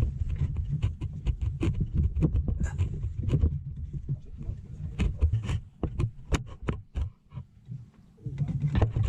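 Irregular clicks and knocks of hands and tools working on the truck's fan and radiator parts, over a low rumble that fades out for a couple of seconds late on and returns near the end.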